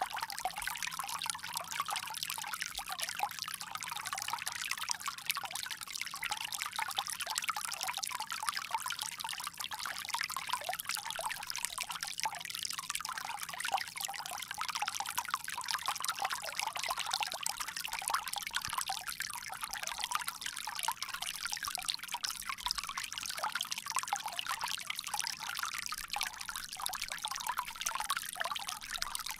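Water pouring from a bamboo spout in a steady, unbroken stream.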